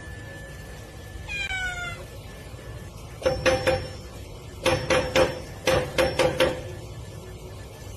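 A cat meowing: one short falling meow, then three quick runs of short, sharp meows.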